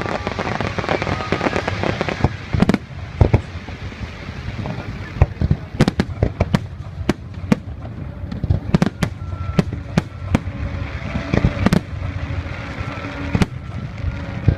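Fireworks display bursting overhead: a rapid, irregular string of sharp bangs and crackles over a continuous low rumble.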